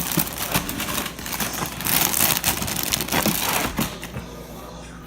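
Rustling and crinkling handling noise made of many small clicks and crackles, with two louder swells in the middle, fading near the end.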